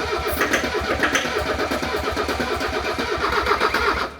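Starter cranking the Mercedes OM617 turbo five-cylinder diesel with a rhythmic chugging, stopping abruptly near the end. Ether has been sprayed into the intake, but the engine does not catch: the fuel system has not yet been bled of air.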